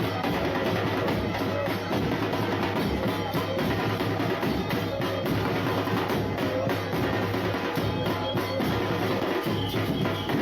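Football supporters' drum band beating a steady, driving rhythm on bass drums and other drums, without a break.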